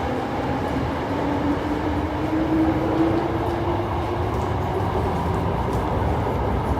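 Osaka Metro Sakaisuji Line subway train running through the station, its motor whine rising slowly in pitch over a steady rumble of wheels and running gear as the train picks up speed.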